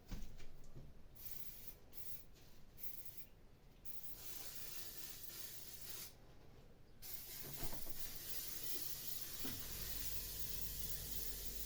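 Aerosol can of high-temperature paint spraying: several short bursts of hiss, then two longer sprays with a pause of about a second between them.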